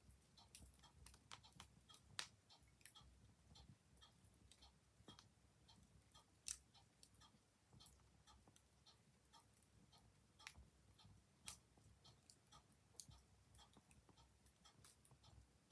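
Wood fire crackling softly: many small irregular pops and a few louder snaps over a low rumble of burning, with a clock ticking.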